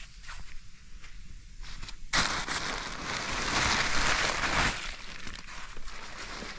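A few scattered clicks, then about two seconds in a sudden loud rustling, crunching noise that lasts nearly three seconds and dies back to faint crackling.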